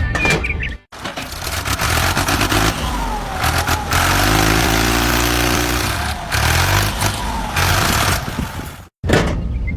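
A small engine running loudly with a steady low throb and a whine that rises and falls, starting and cutting off abruptly.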